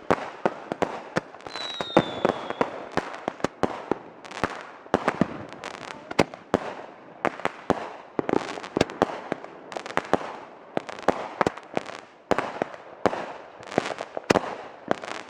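Fireworks going off: a rapid, irregular string of sharp bangs and pops, several a second, with a short, slightly falling whistle about one and a half seconds in.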